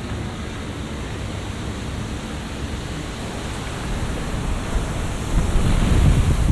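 Rushing, splashing water making a steady roar, with a deep rumble that swells louder about five seconds in.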